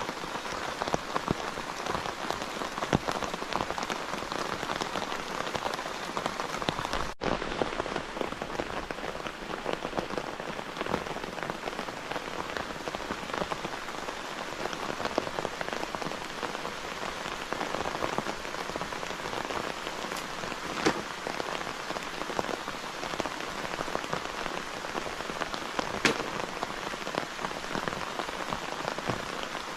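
Steady heavy rain, a dense patter of drops with a few louder single drop hits, and a momentary dropout about seven seconds in.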